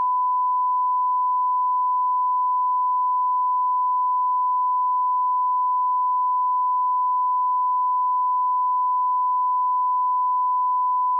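Audio line-up test tone at −18 dB: one steady, unbroken pure tone at a single pitch.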